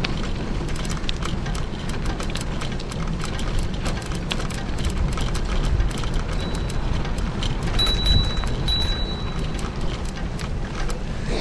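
Riding noise from a GoPro strapped to a moving bicycle: steady low rumble of wind and tyres, with many small rattling clicks from the bike. A thin, high squeal comes in about two-thirds of the way through and lasts a couple of seconds.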